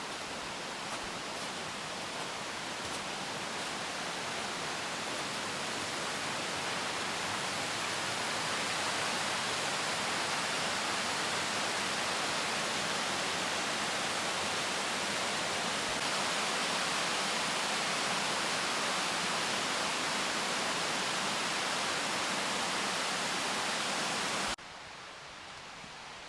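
Steady rush of falling water from a waterfall, growing gradually louder, then cutting suddenly to a quieter hiss near the end.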